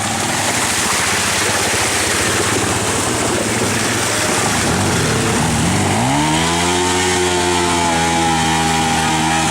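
Dirt bike engine running hard with a dense buzz; about six seconds in, a clear engine note climbs in pitch and then holds steady at high revs.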